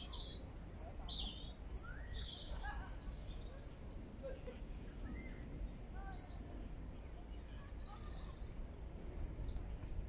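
Small songbirds calling in dense bushes: many short, high chirps and quick glides, scattered irregularly, over a steady low background rumble.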